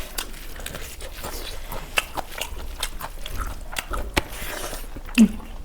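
Close-miked eating: a person biting and chewing, with irregular sharp crunches and mouth clicks. A short voice sound comes near the end.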